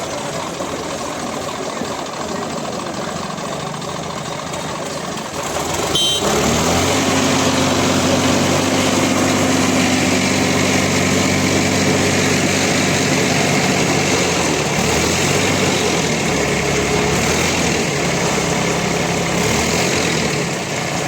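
Tractor diesel engine running, speeding up about six seconds in to a louder, steady higher pitch.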